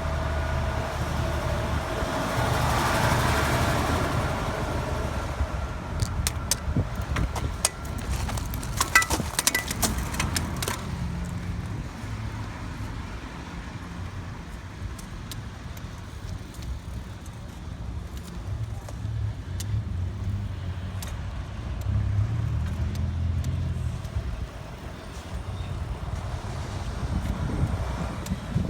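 Street traffic: vehicle engines rumbling low, with one vehicle swelling past about three seconds in and heavier engine rumble again later on. Between about six and eleven seconds there is a run of small sharp clicks and rattles.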